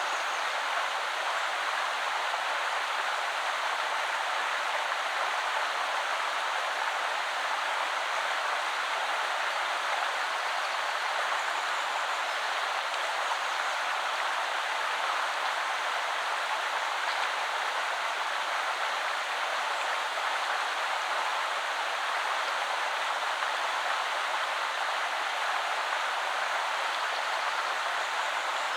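Woodland river flowing, a steady, even rush of running water.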